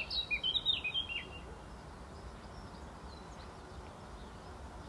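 Small birds chirping in a quick run of short, high notes that stop about a second and a half in, over a low steady outdoor rumble.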